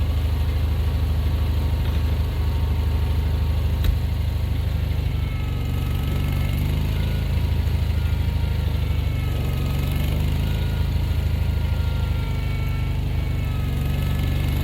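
Engine of a gasoline snow-plowing vehicle running steadily with a low, even hum. There is one sharp click about four seconds in, and a faint wavering whine joins from about five seconds in.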